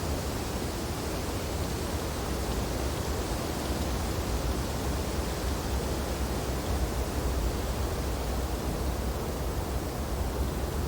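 Wind blowing steadily through tree branches in snowfall: a constant, even rush with a deep rumble underneath.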